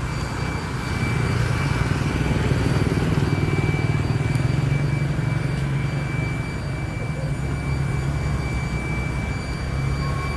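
Steady roar of a waterfall, falling water rushing without a break.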